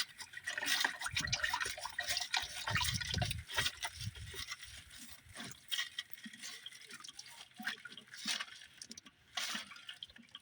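Hydraulic oil dripping and trickling out of a 2022 LS MT225S tractor's hydraulic system during a filter change: an irregular patter of drips and small clicks that thins out over the last few seconds.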